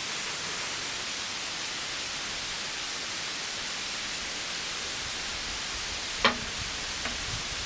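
Steady broad hiss, with a single sharp knock about six seconds in and a faint tick a second later.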